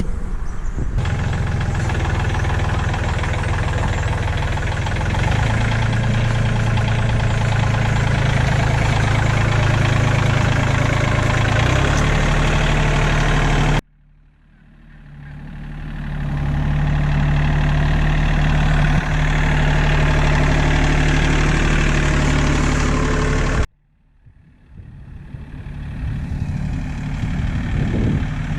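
Tractor engine running steadily, its pitch shifting a couple of times. The sound cuts out abruptly twice and builds back up over a second or two.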